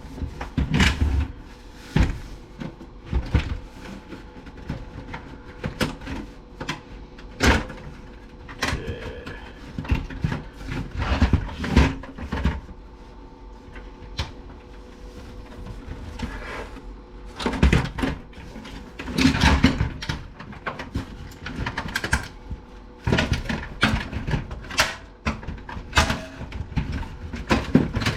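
An Aiwa stereo system being taken apart by hand: irregular knocks, clicks and clunks as its parts are handled, pulled apart and set down.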